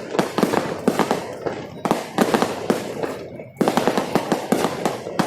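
Fireworks going off in a dense run of rapid sharp cracks and pops. The cracking eases to a brief lull a little over three seconds in, then starts again just as thick.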